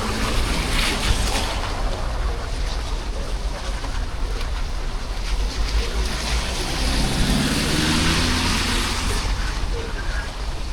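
Wind rushing over the microphone with road noise while riding a TVS Jupiter 125cc scooter; between about six and nine seconds in, an engine's hum swells and rises slightly.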